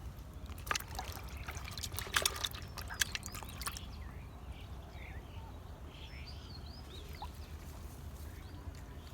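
Water splashing and trickling in a quick run of sharp splashes over the first few seconds, then a scatter of short, high chirping calls over a low steady rumble.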